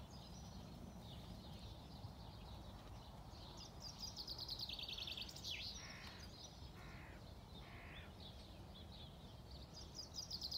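Birds singing: a small bird sings a fast, high trill twice, each time ending in a quick downward note, and three short rasping calls sound about a second apart in the middle, over a faint steady low background noise.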